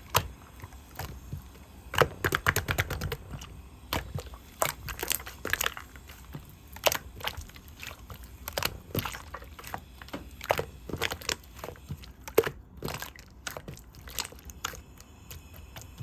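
Yellow slime being squished and poked by hand, giving irregular sharp pops and clicks, sometimes in quick clusters.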